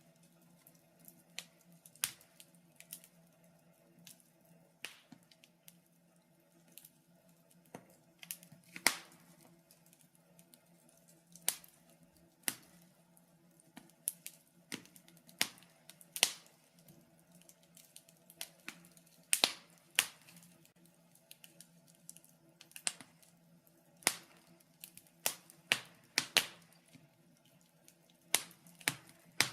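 Wood fire crackling in a fireplace: irregular sharp pops and snaps of uneven loudness, about one or two a second, over a faint steady hum.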